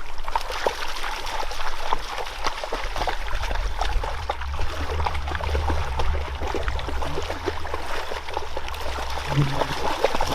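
Water splashing and trickling, a steady run of many small crackling splashes over a low rumble.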